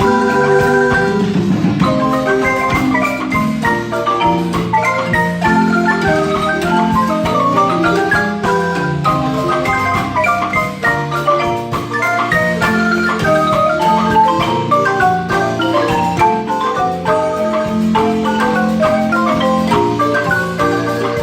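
Marimba ensemble rehearsing: quick runs of struck wooden-bar notes over sustained low bass notes, playing without a pause.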